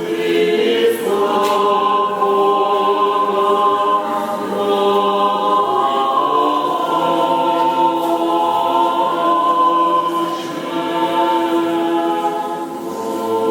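Church choir singing an Orthodox chant, holding long sustained chords that shift slowly from one to the next.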